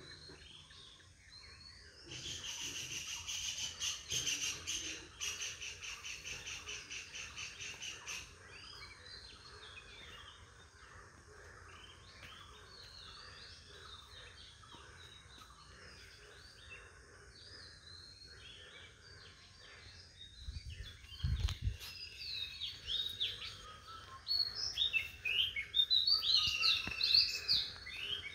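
Birds chirping and calling over a faint steady outdoor background, with a fast, even trill from about two to eight seconds in and louder, sweeping calls near the end. A brief low thump about three-quarters of the way through.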